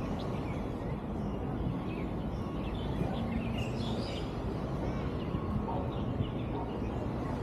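A few faint bird chirps, most about three to four and a half seconds in, over a steady low outdoor background rumble.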